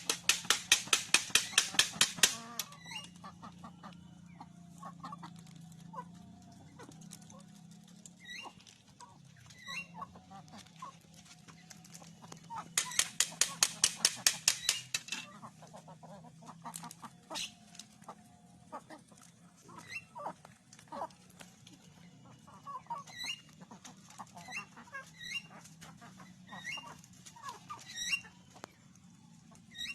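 Free-range village chickens: two bursts of rapid wing-flapping, one right at the start and one about halfway through, each lasting a couple of seconds. In between there is soft clucking and scattered short high chirps.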